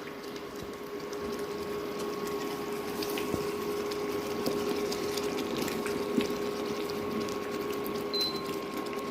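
Chicken in onion gravy simmering and crackling in the pan on raised heat, with many small pops and ticks over a steady hum.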